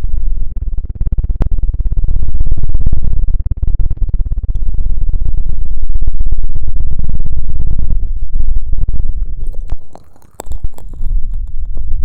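Close-up rubbing and scratching on the microphone, an ASMR trigger: a loud, deep rumble throughout, with sharp clicks and a short break about ten seconds in.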